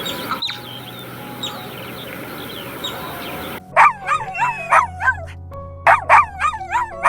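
Animal calls: faint short chirps over a steady hiss, then after a cut two bouts of loud, short, repeated calls, several a second, over steady background music.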